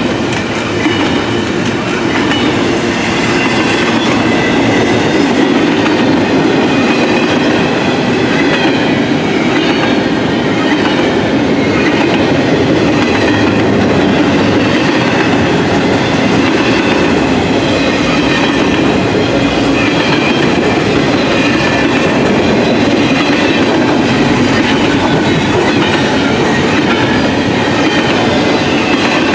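Train cars rolling steadily past on the rails, a loud, even rumble of wheels on track that holds without a break.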